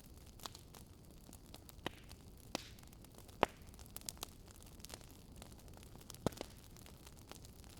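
Wood fire crackling in a fireplace: irregular sharp pops and snaps over a steady low hiss, the loudest pop about three and a half seconds in.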